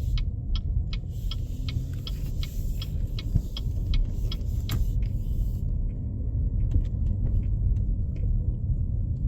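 Steady low rumble of a car driving over an unplowed, snow-covered road, heard inside the cabin. Over the first five seconds a run of short, even ticks, about two to three a second, sounds above the rumble and then stops.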